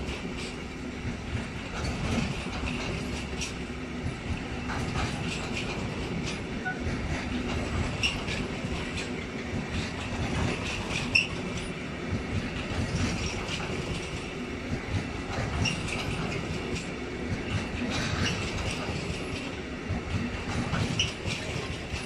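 Loaded car-carrier freight wagons rolling past, their wheels clattering steadily over the rail joints, with a few brief high wheel squeals.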